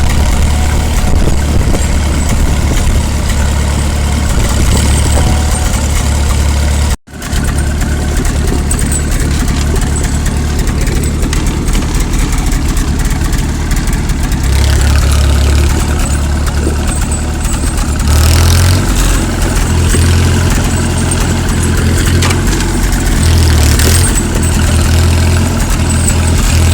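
Tractor engine running loud and close. The sound drops out briefly about seven seconds in, and from about eighteen seconds on the engine note steps up and down as the revs change.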